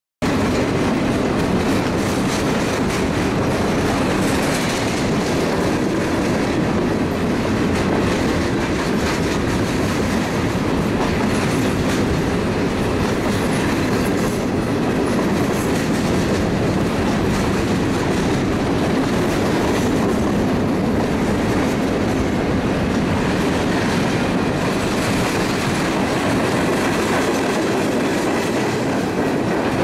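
Freight train's cars rolling past close by: a steady rumble of steel wheels on rail.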